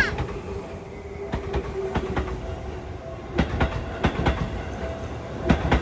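Seibu Railway electric train passing over the level crossing, its wheels clicking over the rail joints in quick pairs about once a second, over a steady hum.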